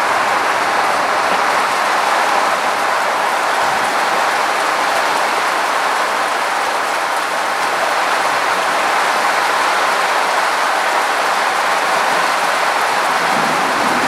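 Rain pouring steadily during a thunderstorm, an even hiss that does not let up.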